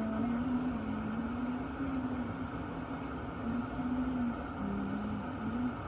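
Sboly single-serve coffee maker running as it heats the water before brewing: a steady hum with a low tone that wavers up and down in pitch.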